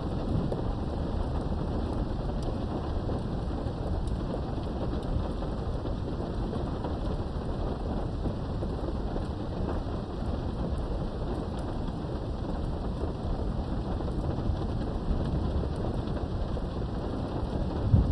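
Steady rain heard through a window over a low rumble of thunder, with a sudden louder thunder clap right at the end.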